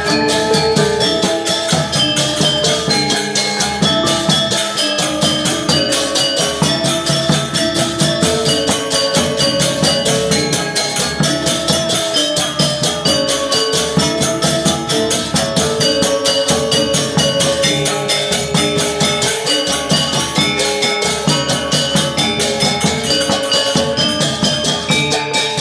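A Balinese gamelan gong ensemble plays a classical lelambatan piece: bronze metallophones and gongs struck in a fast, dense, even stream of notes, with drums.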